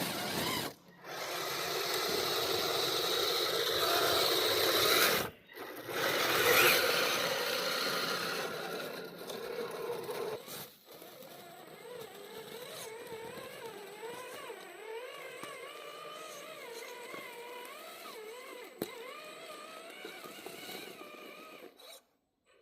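Radio-controlled crawler trucks driving over a forest trail: electric motors and gears whining, the pitch wavering up and down with the throttle. A louder, rougher stretch in the first several seconds is cut off sharply twice, and the rest is quieter.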